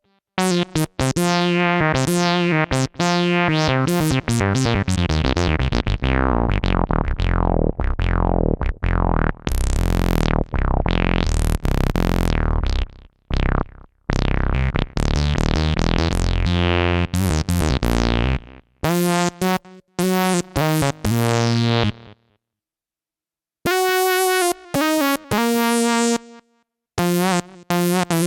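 Sequential OB-6 analog polyphonic synthesizer playing a custom funk patch: a run of pitched notes over a deep bass, the filter sweeping open and shut so the tone brightens and darkens. Two short pauses come near the end.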